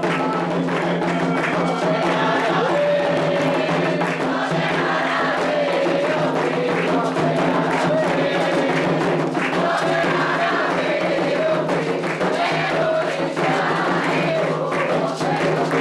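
Candomblé sacred chant for Oxóssi: a group of voices singing together over atabaque hand drums beating a steady rhythm.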